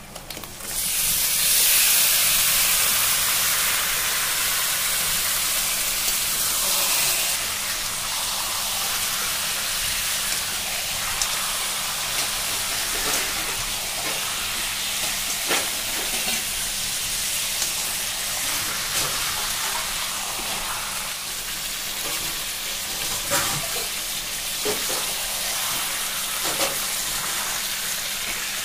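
Raw duck meat sizzling hard as it is tipped into hot spiced oil in a wok about a second in, loudest for the first several seconds, then settling to a steady sizzle. A few short scrapes and knocks come from the spatula stirring the pieces.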